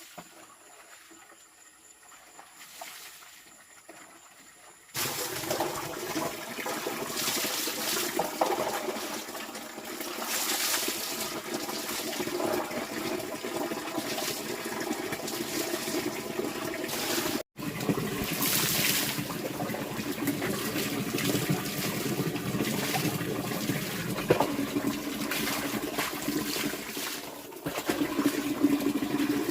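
Water running and splashing, starting abruptly about five seconds in after a quiet stretch, with a brief break in the middle.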